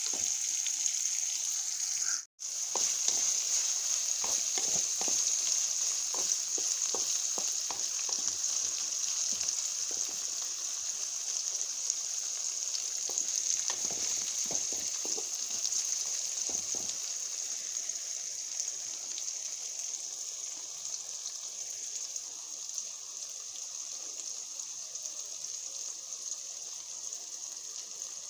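Sliced bitter gourd and onion sizzling in hot oil in an aluminium kadai, a steady high hiss, with a wooden spatula clicking and scraping against the pan through the first half. The sound cuts out for a moment about two seconds in, and the sizzle grows gradually quieter toward the end.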